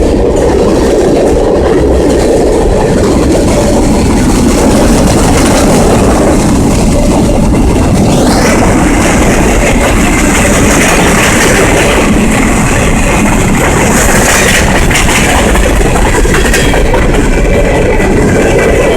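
Canadian National freight train rolling past: a steady rumble with wheel clatter over the rail joints, and a higher-pitched hiss that rises in about halfway through.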